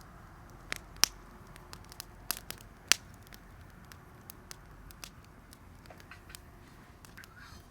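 Wood fire crackling, with scattered sharp pops over a low hiss; the two loudest pops come about one second and three seconds in.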